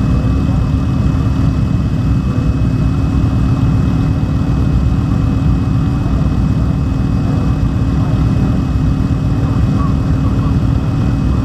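Motorcycle engines running steadily, a constant low rumble with no revving.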